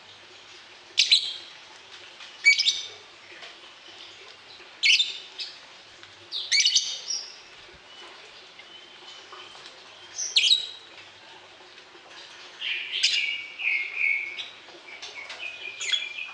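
Cage birds calling: loud, sharp high chirps every second or two, then a quicker run of shorter notes in the second half, over a faint steady hum.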